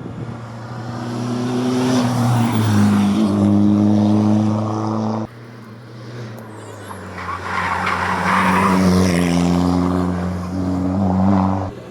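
Competition cars accelerating hard up a hillclimb course, engines revving with quick upshifts. The sound cuts off abruptly about five seconds in, and a second car then builds to its loudest around eight to nine seconds before cutting off again near the end.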